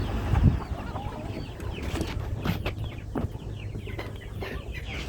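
Chickens clucking around chick food, with many short high calls one after another over a low rumble. A dull thump about half a second in is the loudest sound.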